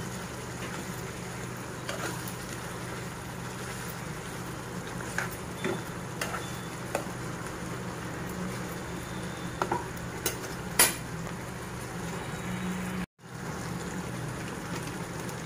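Chicken pieces coated in spice powder sizzling in a speckled non-stick pan while a spatula stirs them, with a few sharp clicks and scrapes of the spatula against the pan. The sound breaks off for a moment near the end.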